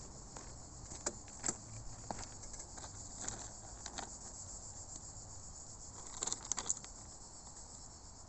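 Insects chirring steadily, with scattered light clicks and knocks and a short cluster of them about six seconds in.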